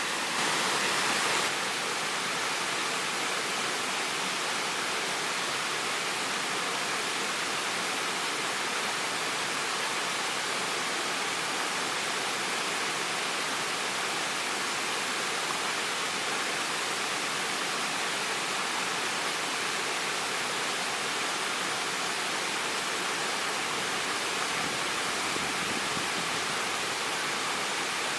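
Waterfall: water falling and splashing in a steady rush, with a brief louder surge in the first second and a half.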